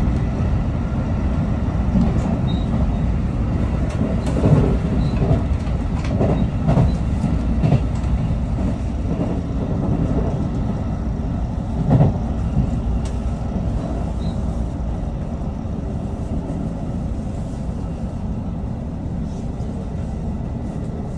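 Electric commuter train running on rails, heard from inside the front car: a steady low rumble with occasional thumps of wheels over rail joints. The rumble eases toward the end as the train comes into a station.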